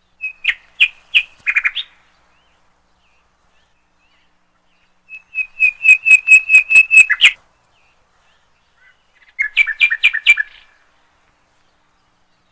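A small bird chirping in three quick bursts, each a fast run of sharp notes, the middle one the longest and loudest.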